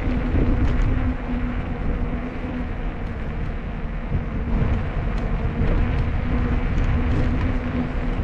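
Steady rushing noise of riding a bicycle, wind on the microphone and tyres on the road, with a low hum that fades in and out.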